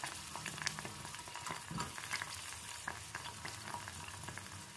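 Whole artichokes frying in hot olive oil in a stainless steel pot: a steady sizzle with scattered crackles and pops.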